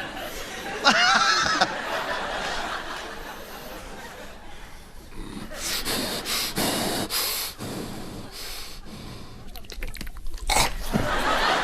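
A man making vocal sound effects into a microphone, with a studio audience laughing. There is a short pitched vocal glide about a second in and bursts of noise through the middle and near the end.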